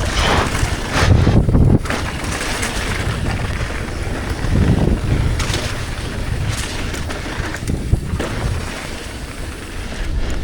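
Wind rushing over an action camera's microphone during a mountain bike descent, over a low rumble of tyres on the wet trail, with the level swelling and easing and an occasional sharp knock.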